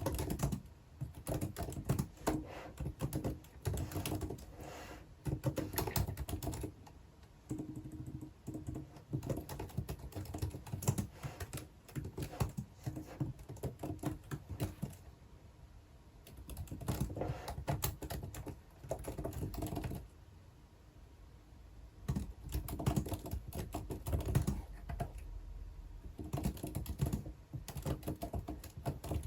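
Typing on a computer keyboard: runs of rapid keystrokes broken by a few short pauses, the longest about two seconds.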